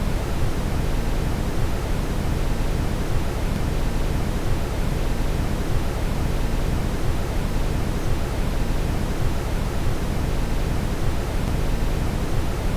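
Steady brown noise: an even, unchanging rush weighted heavily toward the low end.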